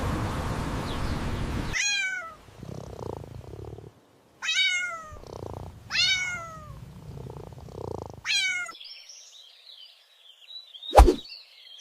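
A cat meows four times, each meow falling in pitch, with soft purring between the meows; a steady rushing noise fills the first second or two. Near the end birds chirp and a single sharp knock, the loudest sound, cuts in.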